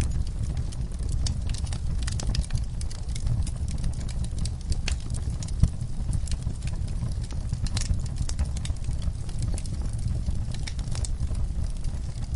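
Wood fire burning in a fireplace: a steady low rumble of flames under frequent, irregular crackles and pops, with one sharper pop about five and a half seconds in.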